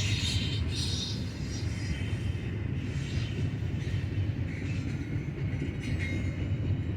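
Freight cars of a long BNSF stack and tank-car train rolling past, a steady rumble of wheels on rail.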